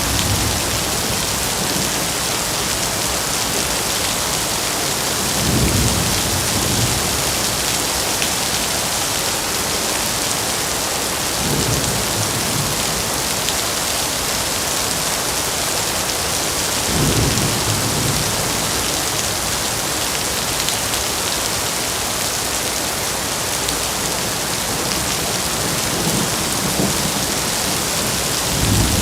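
Heavy rain falling steadily in a dense hiss, with a deeper low swell rising and fading about every five to six seconds.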